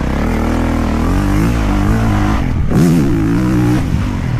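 A 450cc four-stroke motocross bike's engine being ridden, its pitch rising and falling repeatedly as the throttle is rolled on and off. It dips briefly about two and a half seconds in, then climbs again.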